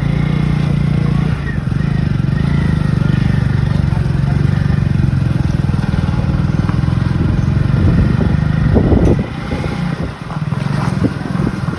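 Road traffic dominated by motorcycle engines running close by, with a louder pass building up and dropping away about nine seconds in.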